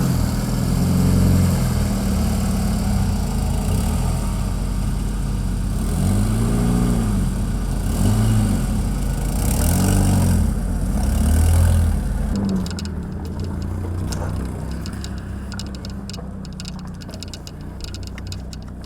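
Car engine revving, its pitch rising and falling several times, then running more evenly and quieter for the last third or so.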